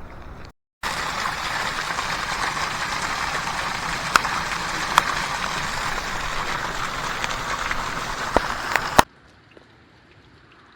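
Steady rain, with a few sharp taps of drops landing close by. It starts and stops abruptly.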